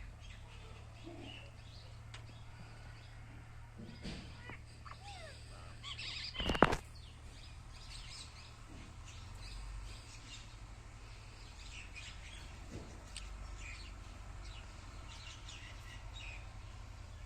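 Small bird chirping in short, scattered calls, over a low steady hum. A sharp loud knock comes about six and a half seconds in.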